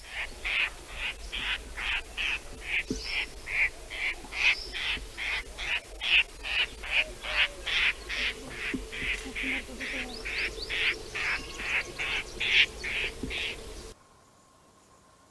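A bird calling over and over in short, evenly spaced notes, about three a second, which stop abruptly near the end.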